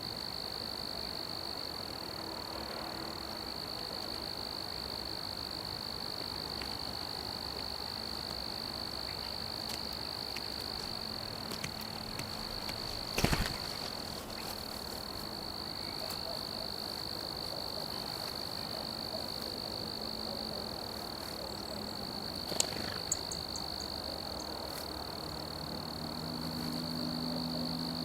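Steady, unbroken high-pitched trilling of an insect chorus, such as crickets, with a single sharp knock about halfway through and a few light ticks later.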